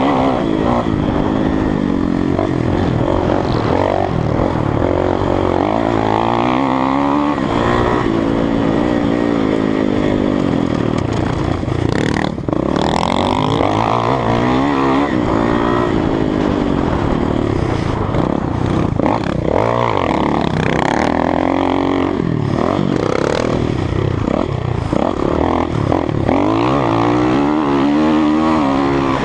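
Kawasaki KX450F dirt bike's single-cylinder four-stroke engine heard up close while riding a motocross track, revving up and falling back again and again as it accelerates, shifts and slows. The throttle is briefly cut about twelve seconds in.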